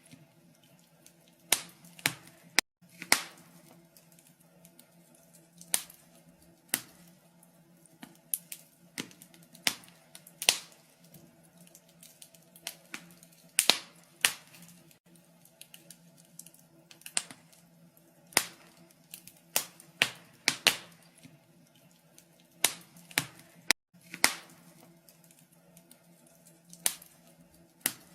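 Wood fire burning in a fireplace, crackling with irregular sharp pops and snaps, roughly one a second and some much louder than others, over a faint steady low hum.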